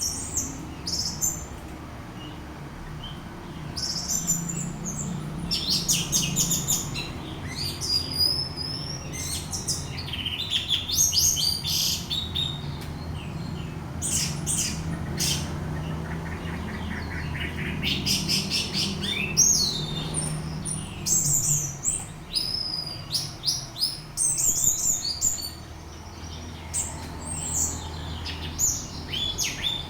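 Orange-headed thrush singing: a long run of rapid, varied whistled and chattering phrases with short pauses between them, over a steady low hum.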